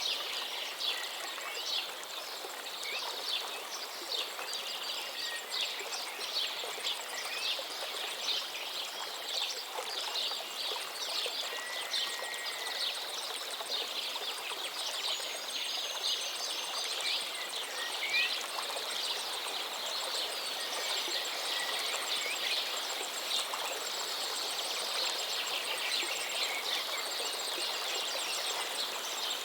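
River water flowing steadily under a dense chorus of birds chirping, with a few short whistled glides among the chirps.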